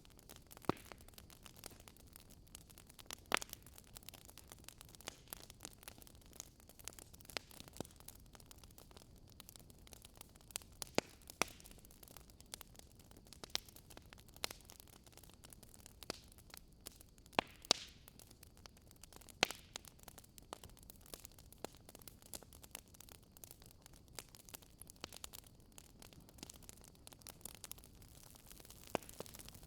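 Wood fire in a fireplace crackling: irregular sharp pops and snaps over a faint steady hiss.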